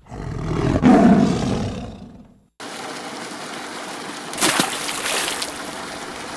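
A tiger roars, swelling loud about a second in and fading away over the next second and a half before it cuts off. A steady rush of flowing water follows, with a brief louder stretch in the middle.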